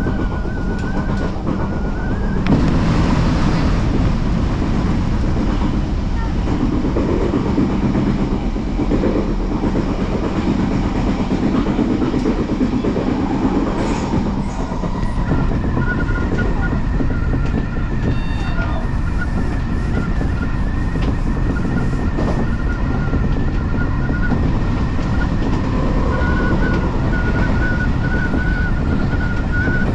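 Odakyu Line electric commuter train running along the track: continuous rumble of wheels on rail under a steady high whine, with the noise briefly louder a couple of seconds in.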